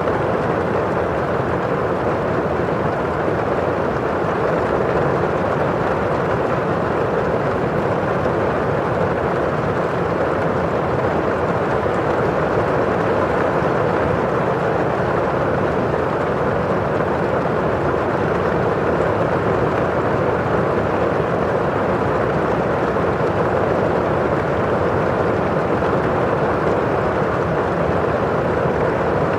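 Steady rain falling on a window pane and outside: an even, unbroken rushing noise, dull rather than hissy, with no single drops standing out.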